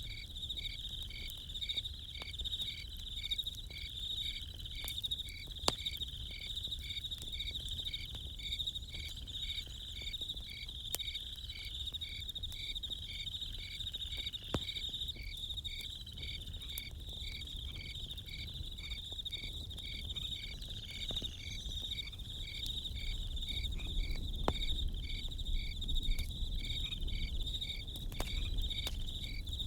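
Crickets chirping in a steady, even rhythm over a continuous high insect trill, with occasional sharp pops from a campfire.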